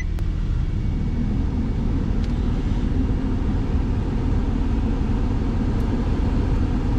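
Car engine idling with the heater/AC blower fan running, blowing air through the vents, after a click just after the start; the AC compressor is not engaging, so the air is blowing warm.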